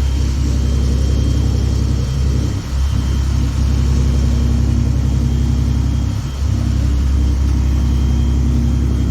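Car engine and road rumble heard from inside a moving car's cabin: a steady low drone that eases off briefly twice.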